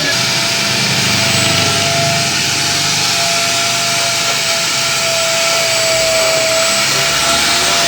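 Car-wash machine running steadily: a loud, even hiss with a steady whine.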